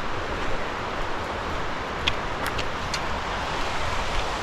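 Steady rushing of creek water, with a few faint high clicks about two to three seconds in.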